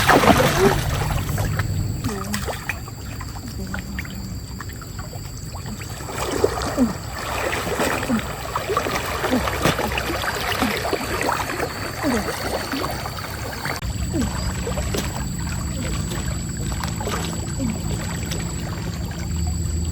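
Stream water splashing and gurgling, with many small splashes and trickles that grow busier partway through and ease off again.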